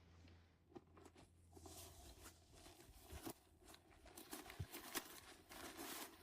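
Faint rustling and crinkling with scattered light clicks, a little denser near the end.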